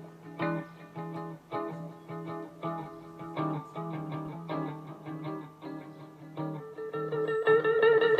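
Live guitar playing slow plucked chords and single notes, each note ringing out. Near the end a held melodic line comes in over it and the music gets louder.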